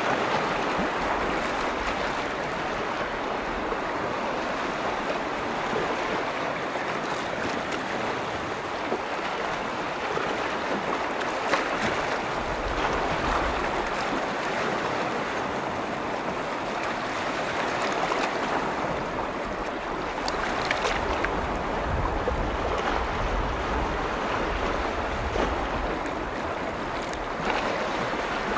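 Small lake waves washing and lapping steadily on the shore of Lake Vänern, with small splashes throughout. Wind rumbles on the microphone at times.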